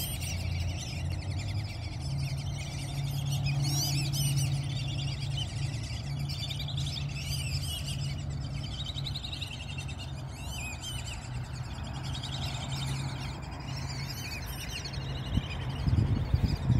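Small birds chirping in many short, repeated calls over a steady low hum. A few low thumps come near the end.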